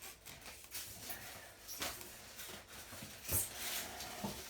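Polystyrene packaging being worked off the back of a washing machine: scattered scrapes, creaks and small knocks, the loudest a knock about three seconds in.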